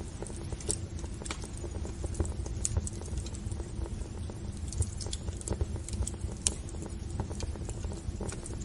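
Wood fire burning in a fireplace, crackling with irregular sharp pops over a steady low rumble of flames.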